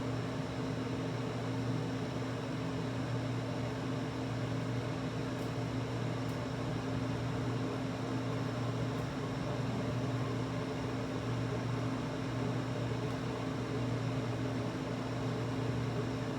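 LG LW8016ER 8,000 BTU window air conditioner running in cool mode on low fan with its compressor on: a steady hum over an even rush of air.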